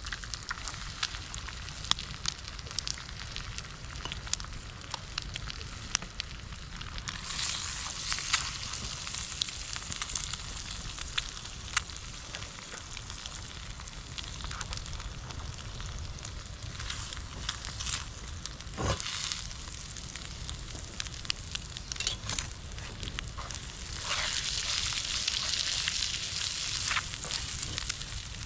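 Food frying and sizzling in a pan over a campfire, with the fire crackling and popping throughout. The sizzle swells louder about seven seconds in and again near the end.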